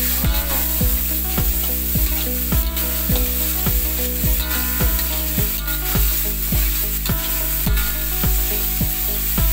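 Chili sambal sizzling in hot oil and being stirred in the pan, under background music with a steady beat.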